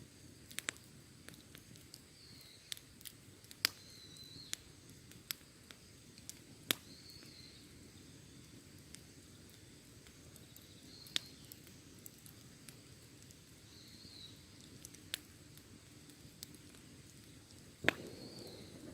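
Wood fire crackling: irregular sharp pops and snaps over a soft low rustle of burning, with the loudest pop near the end. A faint short high chirp recurs every few seconds.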